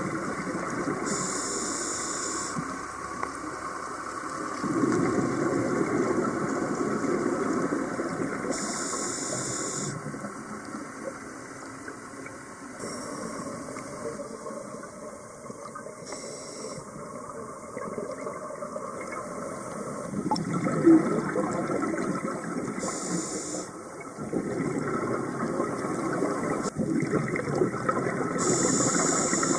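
Scuba diver breathing through a regulator underwater: a short hiss on each breath in, about every six to seven seconds, and longer stretches of bubbling noise from the breaths out.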